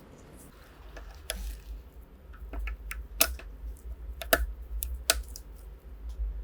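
Irregular sharp clicks and light taps of small metal rifle parts being handled, about four louder ones among fainter ticks, over a low steady hum.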